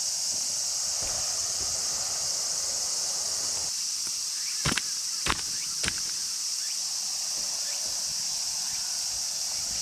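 Steady, high-pitched drone of insects in a midsummer forest, with three sharp clicks about half a second apart near the middle.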